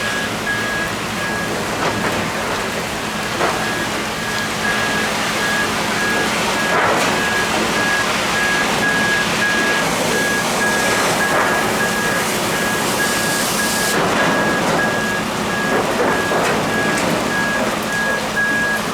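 A vehicle reversing alarm beeping at one high pitch in an even, repeating series, over a constant rushing hiss.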